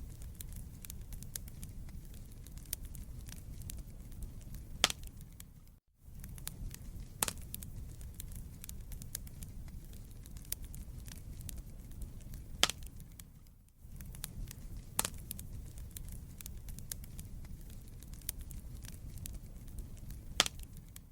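Wood fire in a fireplace crackling: a steady low rumble of burning logs with frequent small pops and a few sharper, louder snaps. The sound drops out for a split second twice, about six and fourteen seconds in.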